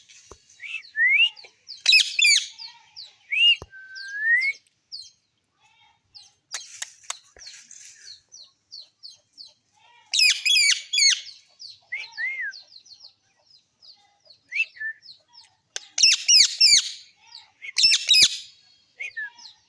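Parrots calling: loud squawks every few seconds, clustered near 2, 10, 16 and 18 seconds in. Between them come short rising-and-falling chirps and softer chatter.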